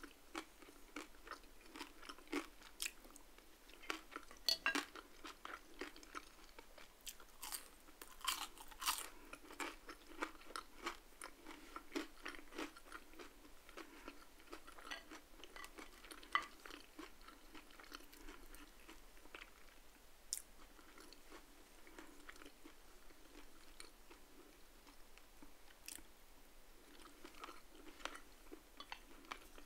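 Chewing of crispy food, with sharp crunches and crackles. They come thickest in the first ten seconds and grow sparser after.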